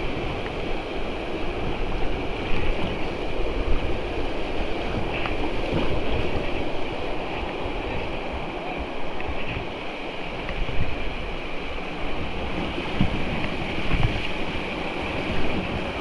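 Creek rapids rushing steadily, with wind buffeting the microphone and a few short low thumps.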